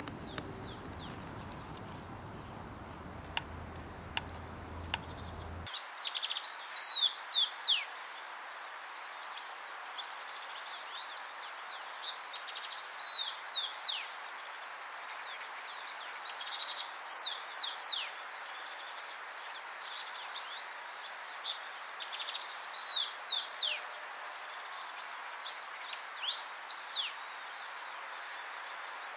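A bird singing short phrases of high, quickly falling whistled notes, repeated every three to four seconds over a steady background hiss. A few sharp clicks come before the song begins.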